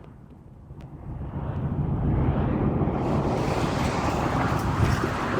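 Road and wind noise of a moving car, building over the first two seconds as it speeds up, then holding steady.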